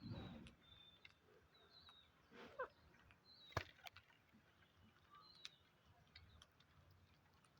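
Faint, brief bird chirps repeating every second or so, with a soft rustle at the start and a few sharp clicks, the loudest about three and a half seconds in.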